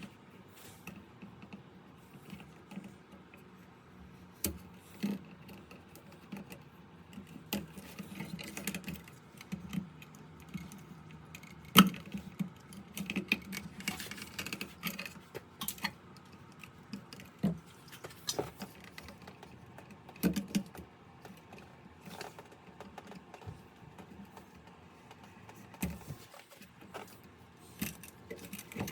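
Scattered clicks, taps and light metallic rattles of hand tools and wire being handled while wiring a light switch box, with one sharper click about twelve seconds in.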